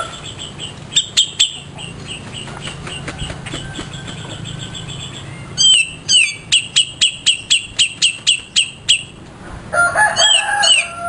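Cica jenggot songbird calling in sharp, high chips: a few scattered ones early, then a rapid run of about four a second from about six seconds in. Near the end a lower, drawn-out call, like a rooster's crow, breaks in.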